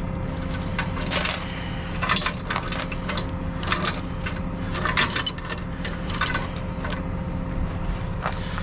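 A heavy truck's engine idling steadily under irregular sharp metal clanks and rattles from chain and rigging being handled.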